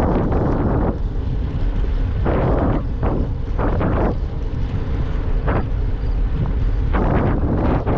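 Wind buffeting the microphone while riding a bicycle: a steady low rumble with irregular gusts of hiss, about five surges across the few seconds.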